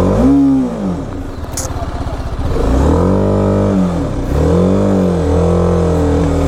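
BMW G 310 RR's single-cylinder engine revved up and down three times under load on a steep climb: a short blip at the start, then two longer rises and falls in pitch.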